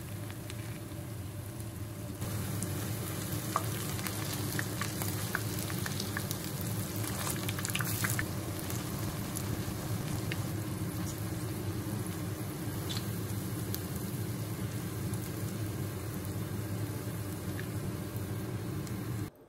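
Vegetable fritters shallow-frying in hot oil in a nonstick pan: a steady sizzle, which gets louder about two seconds in and cuts off abruptly near the end. Scattered light taps and scrapes come from a wooden spatula pressing the fritters down and turning them.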